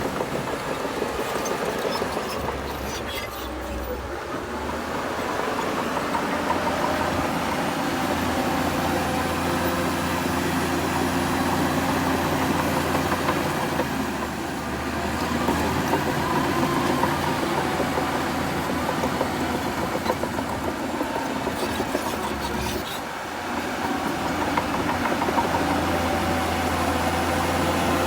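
Shantui bulldozer's diesel engine running steadily as it works, its level easing off briefly twice, about three seconds in and again near the end.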